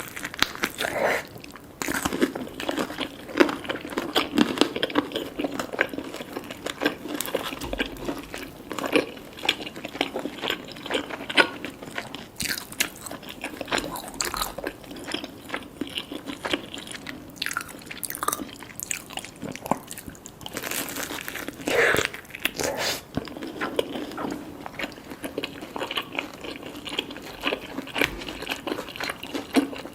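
Close-up eating sounds: crunchy bites and chewing of crispy fried chicken, with many irregular crackles.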